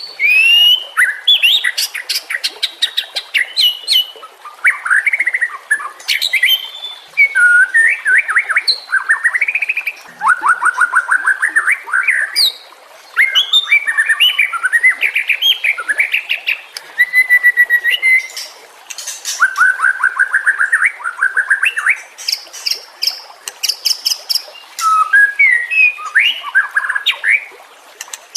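White-rumped shama (murai batu) singing a long, varied song. Fast trills of repeated notes alternate with clear whistles and sharp high chips, in phrases broken by a few short pauses.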